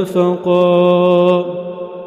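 A man's solo voice chanting Quranic recitation (tajweed) in maqam Kurd, ending a verse on one long held note with reverb. About a second and a half in, the note fades away.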